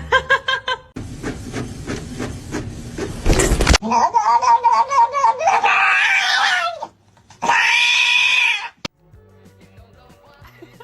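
Cat yowling: a long wavering call followed by a shorter one, after a loud noisy burst, over background music.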